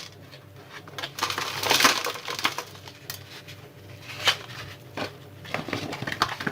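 Dry potting soil and small stones being handled and poured while repotting a bonsai: a gritty pour about two seconds in, with scattered clicks and knocks.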